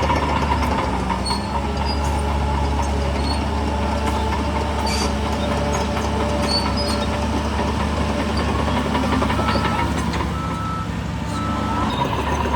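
Heavy diesel earthmoving machinery running steadily, with knocks and clatter of stone and metal. A few short beeps sound near the end.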